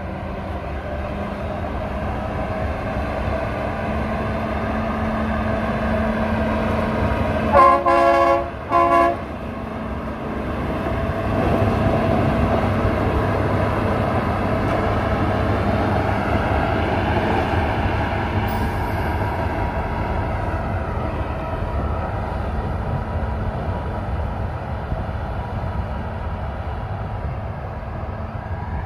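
Mount Washington Cog Railway diesel locomotive climbing past, its engine drone steady and growing louder as it draws level. About eight seconds in the horn sounds two short toots, the first longer.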